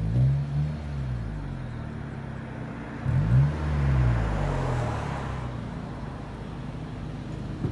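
Mazda Atenza Sport GG3S's 2.3-litre four-cylinder engine breathing through an AutoExe Premium Tail Muffler, blipped twice from idle: the revs rise quickly and fall back at the start and again about three seconds in, then it settles to a steady idle.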